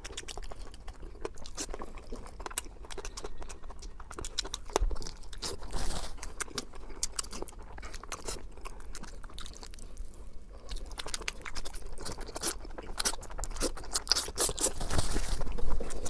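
A person chewing and crunching food close to the microphone, with many small irregular crunches and mouth clicks that grow louder near the end.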